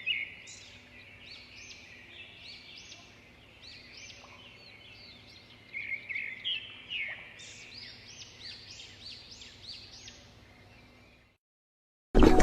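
Small birds chirping, many quick rising-and-falling notes in two busier bouts over a faint steady background hum. The birds cut off abruptly near the end, and music starts.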